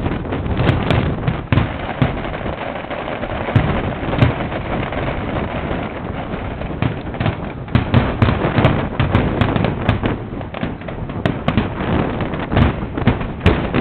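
Fireworks going off without a break: a dense run of sharp cracks and pops, with deeper booms among them.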